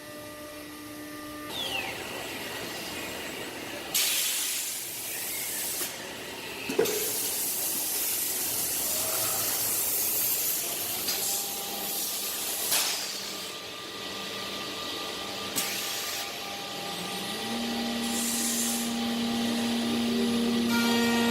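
Biesse Rover A3 CNC nesting router running, with a steady whine that changes pitch several times and long spells of loud hissing noise that start and stop abruptly.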